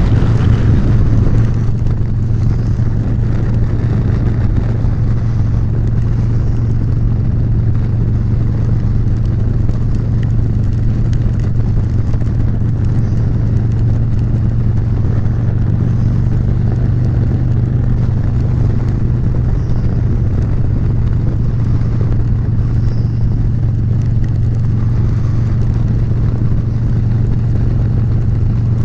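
Motorcycle engine running steadily at freeway cruising speed, a constant low drone, under a steady rush of wind and road noise.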